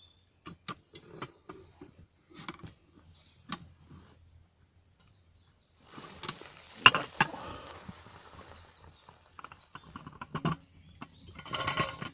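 Wood fire crackling, with scattered sharp pops and snaps; from about six seconds in a steady hiss joins under louder snaps.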